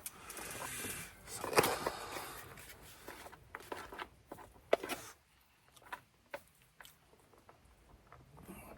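A person starting to eat: a short noisy burst of eating sounds about one and a half seconds in, followed by scattered small clicks and taps that grow sparser toward the end.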